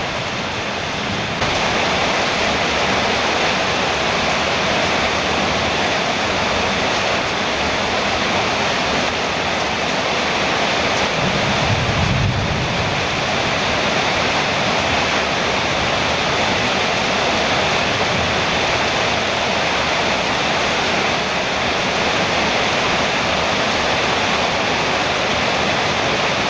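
Heavy rain drumming steadily on a metal roof: a dense, even hiss that grows louder about a second and a half in, with a brief low rumble near the middle.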